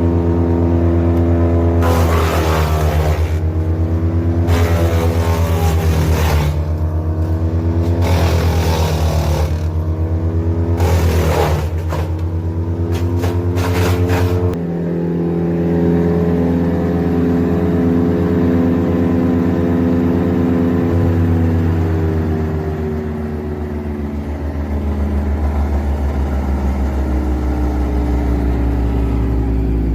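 Morbark Beever wood chipper running at full engine speed while pieces of wood are fed in and chipped, heard as five short loud grinding stretches over the first half. Afterwards the engine runs on alone and its pitch drops somewhat as it slows toward idle.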